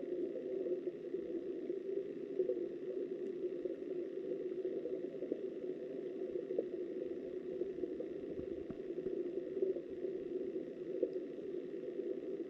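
Steady, muffled rush of flowing river water heard underwater through a submerged camera, dull and low with no separate splashes.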